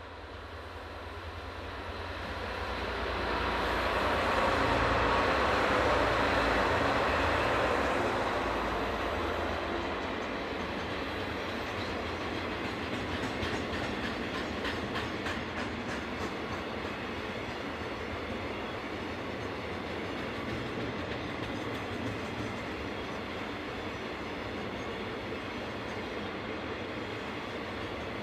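Train passing at speed. It is loudest about four to eight seconds in, with a deep rumble, then settles into a steady rolling noise. Wheels click rhythmically over rail joints around twelve to sixteen seconds in.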